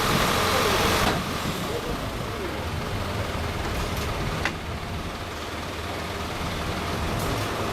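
A motor engine running steadily at idle, with distant voices. A louder hiss stops about a second in, and there is one sharp click midway.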